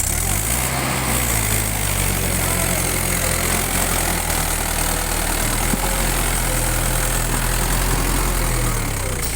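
Mahindra 475 tractor's diesel engine running steadily. It cuts in abruptly at the start, and the engine note dips slightly near the end.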